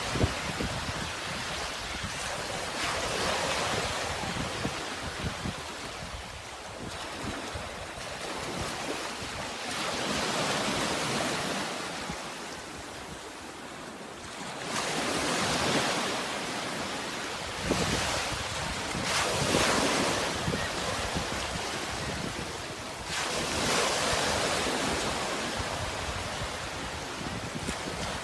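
Sea waves washing in on the shore, each surge of surf swelling up and falling back every few seconds.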